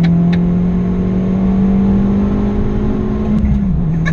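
Tuned 250 bhp Abarth 595's turbocharged 1.4-litre four-cylinder engine, heard from inside the closed cabin, pulling under load with its note climbing slowly. Near the end the revs drop.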